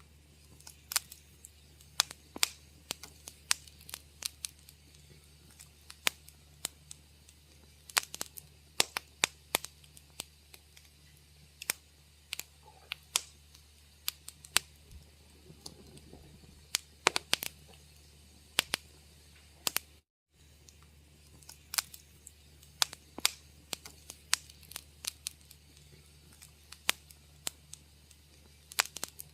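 Wood fire crackling: irregular sharp pops and snaps, sometimes in quick clusters, over a steady low hum. The sound cuts out for a split second about two-thirds of the way through.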